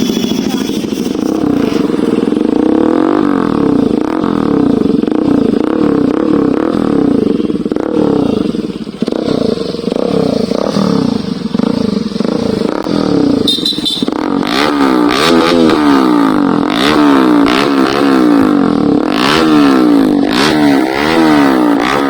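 Bajaj Pulsar RS200 single-cylinder engine running through an aftermarket SC Project exhaust, held at a fast idle and blipped again and again. In the second half the quick revs come about once a second.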